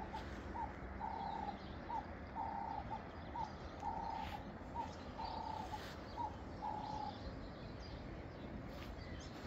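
A bird calling: a short note followed by a longer one, repeated as a steady phrase about every second and a half, stopping about seven seconds in.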